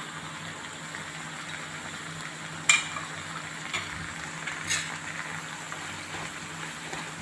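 Onion, tomato and cashew masala sizzling steadily in a pan of butter, freshly spiced with chilli powder and garam masala. A sharp clink of a utensil against the pan comes about two and a half seconds in, with a couple of lighter clinks after it.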